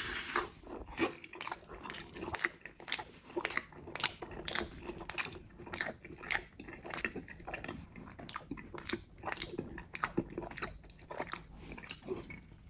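Close-miked chewing of a mouthful of thick-crust pizza: a steady, uneven run of short crunchy mouth sounds, about two a second.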